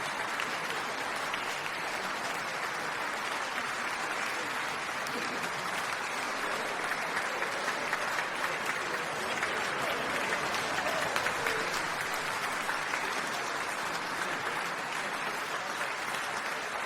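Crowd applause: many people clapping together at a steady level, with no break.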